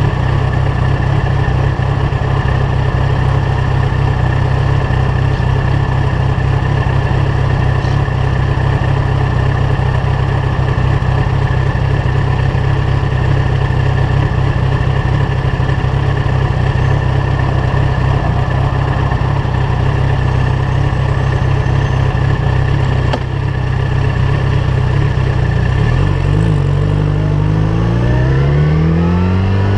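Yamaha FZ1's inline-four engine with a LeoVince GP-style aftermarket exhaust, idling steadily at a standstill. About 26 seconds in the revs climb as the bike pulls away, drop briefly at a gear change, then rise again.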